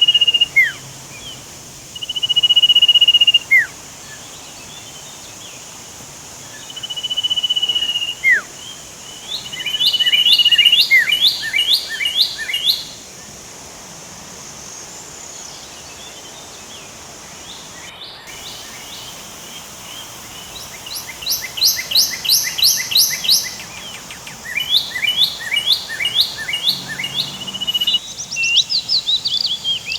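Birds calling: several held whistled notes, each about a second long, followed by quick trills of rapidly repeated notes that come back in runs through the second half. A steady high insect buzz runs underneath.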